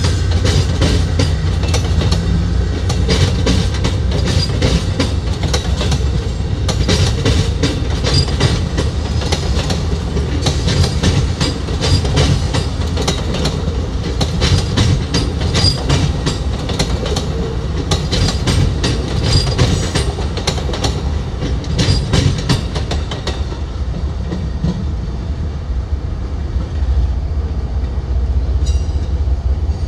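Train cars rolling past, their wheels clicking over the rail joints in a steady run of clacks over a low rumble; the clacks grow sparser in the last few seconds.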